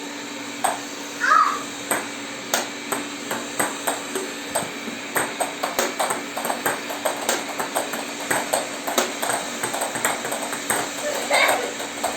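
Tabletop basketball game being played: quick, irregular plastic clicks and knocks, two to four a second, over a steady low hum.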